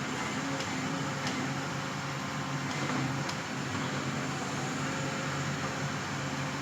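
Forestry harvester's engine running steadily, with a few light clicks.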